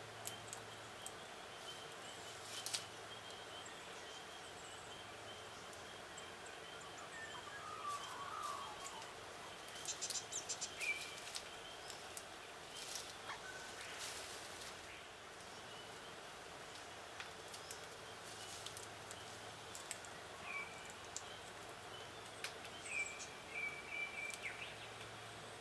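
Faint outdoor birdsong: scattered short chirps and one wavering call over a steady background hiss, with a few sharp clicks.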